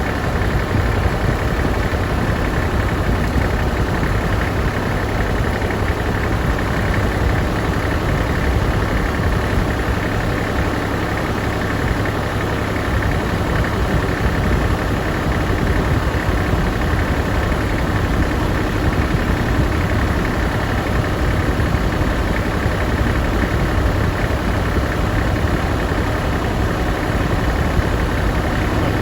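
Tractor engine idling steadily, a constant low rumbling run with no change in speed.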